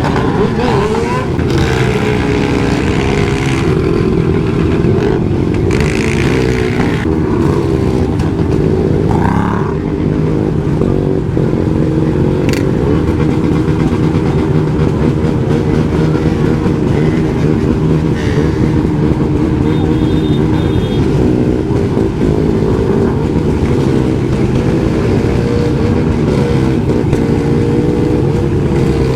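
Motorcycle engine running steadily and loud, its pitch wavering slightly without big revs.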